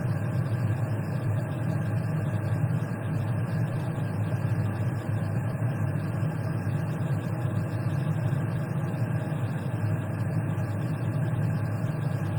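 Steady low mechanical hum, like an idling engine or running machinery, holding even throughout with no breaks.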